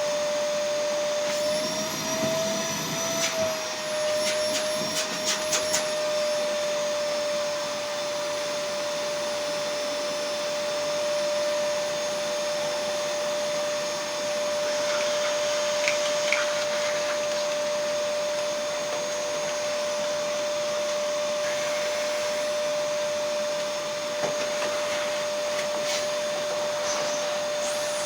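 Electric motor running with a steady whine over a rush of air. Its pitch rises a little about two seconds in, then settles back. A handful of sharp clicks and rattles come a few seconds in.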